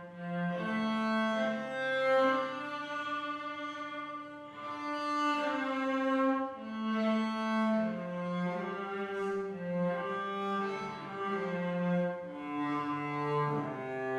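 Cello playing a slow hymn tune in long bowed notes, each held for about a second or two.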